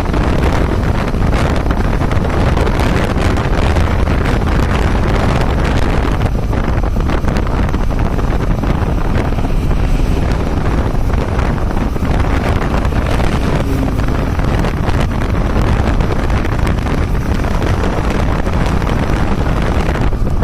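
Steady wind buffeting the microphone over the rumble of a moving vehicle.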